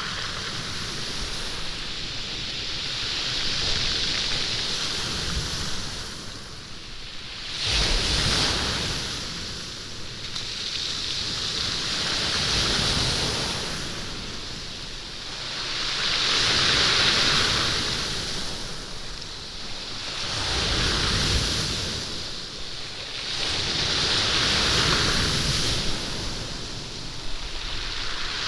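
Waves breaking and washing back over a stony beach, rolling the stones so they clatter and rumble. The surf swells and ebbs in repeated surges every few seconds, with a sudden strong surge about eight seconds in.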